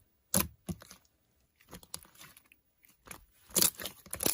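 Irregular sharp crunching clicks close to the microphone, a couple about half a second in and a louder cluster near the end, with quiet gaps between.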